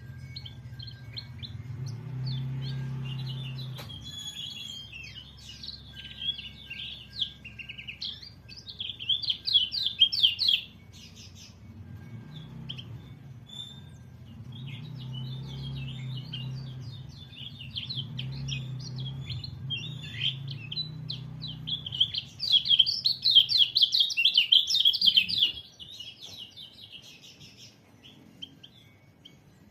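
White-eye (pleci) singing a rapid, chattering twitter of quick high notes in long runs, loudest about a third of the way in and again about three quarters through. A low steady hum runs underneath.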